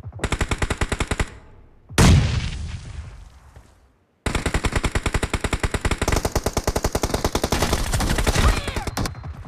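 Video-game automatic gunfire: a short burst of rapid shots at about ten a second, then one loud bang that dies away over about two seconds. After a brief gap, sustained rapid fire starts about four seconds in and carries on.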